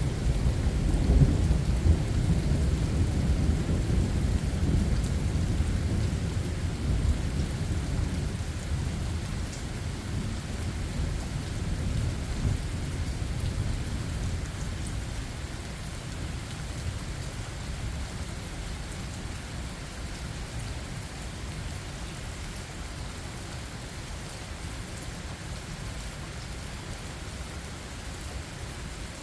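Rolling thunder over steady rain: a low rumble swells at the start, is loudest within the first couple of seconds, then fades slowly over about twenty seconds, leaving the even hiss of the rain.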